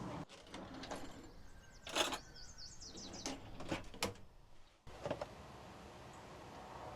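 Several sharp clicks and knocks, the loudest about two seconds in, followed by a quick run of high, falling chirps. The scene changes abruptly near the end to a steadier background noise.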